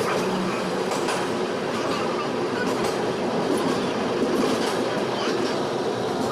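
Passenger train running along the track: a steady rumble with faint scattered clicks of the wheels over the rails.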